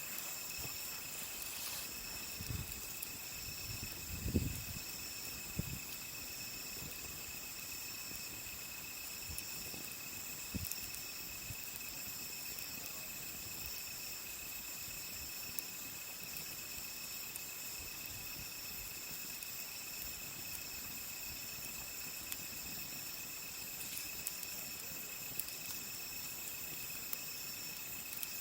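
A steady chorus of crickets chirping at several high pitches, with a few soft pops and knocks from the burning firewood, the strongest a low thump about four seconds in.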